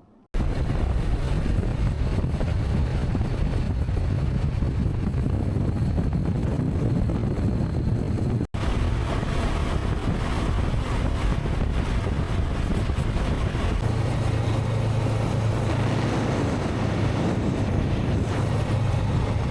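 Wind rushing over the microphone, with the steady drone of a Honda CB500X's parallel-twin engine under way. The sound cuts out for an instant about eight and a half seconds in.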